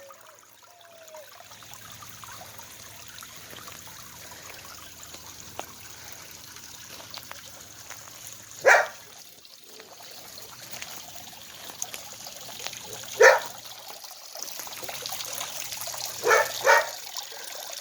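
Water trickling steadily from a frog spitter into a backyard pond. A dog barks once about halfway through, once again a few seconds later, and twice in quick succession near the end.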